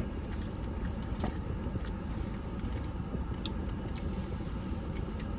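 Steady low rumble of a car's cabin with the engine running, with a few faint clicks about a second in and again near the middle.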